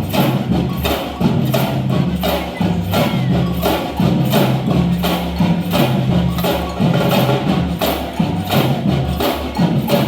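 Samba percussion band playing a steady, driving rhythm: drums with sharp, evenly repeating hits and clacking wood-block-like accents.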